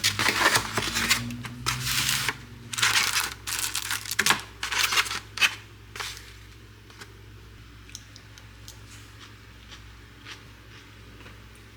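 Crinkling and tearing of packaging in a run of irregular bursts, ending about six seconds in. A few faint clicks follow in a quiet room.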